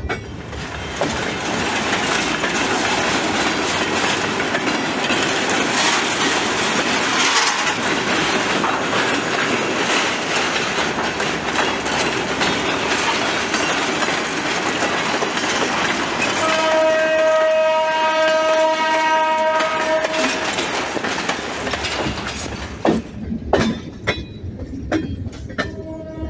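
Relief train hauled by an EMD GT22CW diesel locomotive running past with a steady rumble and wheels clattering on the rails. About sixteen seconds in, a horn sounds one chord for about four seconds; then the rumble fades to single clicks of wheels over rail joints, and a horn tone begins again just at the end.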